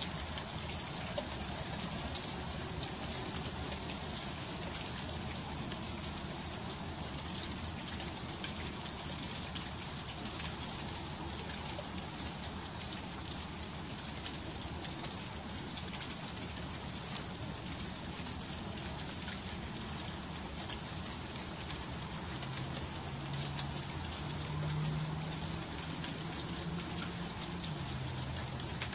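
Freezing rain falling and ticking on icy surfaces: a steady hiss dotted with many small, sharp ticks. A faint low hum steps up and down in pitch in the last few seconds.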